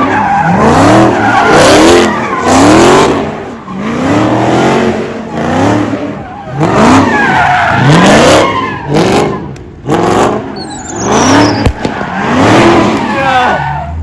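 V8 muscle car doing donuts: the engine revs up and drops over and over, roughly once a second, with the rear tyres spinning and screeching on the pavement.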